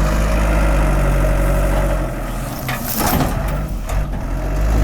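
Engine idling steadily just after being started, with a brief louder noisy burst about three seconds in.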